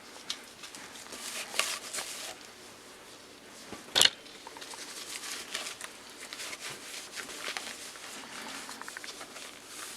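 Rustling and light handling noises, short scrapes and crinkles, with one sharp click about four seconds in.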